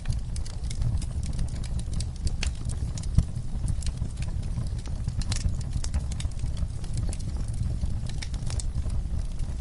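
Wood fire in a fireplace crackling: frequent irregular sharp pops and snaps over a steady low rumble of the flames, with one louder pop about three seconds in.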